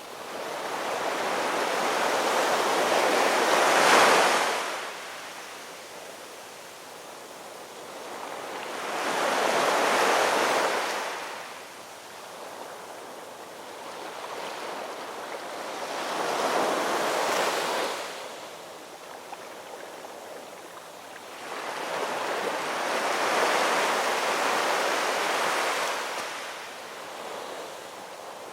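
Ocean waves breaking and washing up on the shore, four swells of surf rising and falling about every six to seven seconds.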